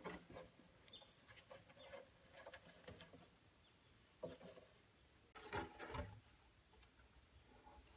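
Faint scattered knocks, clicks and rustles, with a louder cluster of knocks a little past the middle.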